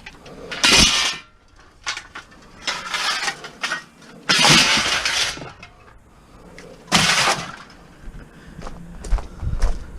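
Pieces of scrap metal clattering and crashing as they are tossed onto a pile: four loud crashes, with smaller clinks and knocks in between.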